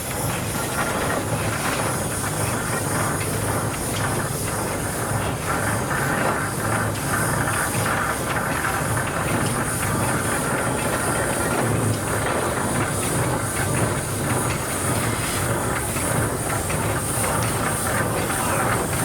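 Steam traction engines passing in a parade: a steady hiss of steam with the running noise of the engines.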